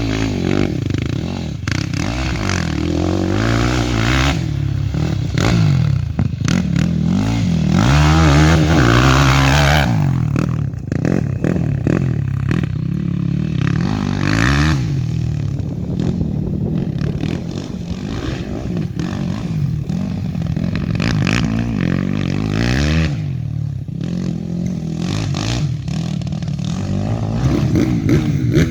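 Quad bike (ATV) engine revving hard and easing off over and over as it rides a motocross track, the pitch climbing and dropping with each burst of throttle, loudest about eight to ten seconds in.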